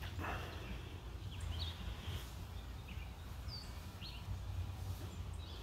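Birds chirping outdoors: several short, high chirps scattered over a steady low rumble.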